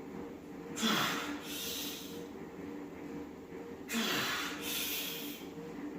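A man breathing hard from the exertion of heavy close-grip bench pressing: two deep, forceful breaths about three seconds apart, each a draw in and a blow out. A faint steady hum runs underneath.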